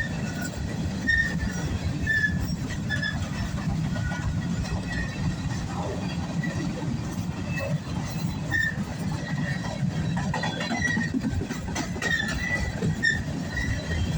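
Freight cars of a CSX train rolling past: a steady rumble of wheels on the rails, with short high wheel squeals now and then.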